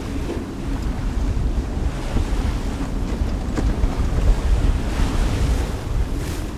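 Strong wind buffeting the microphone over rough, choppy sea around a sailboat, with wind running against the current in the inlet.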